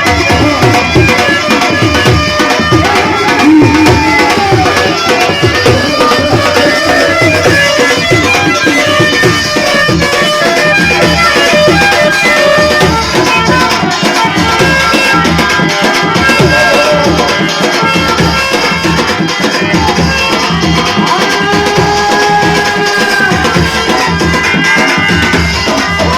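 Rajasthani folk devotional music: a hand drum keeping a steady beat under a sustained, reedy melody.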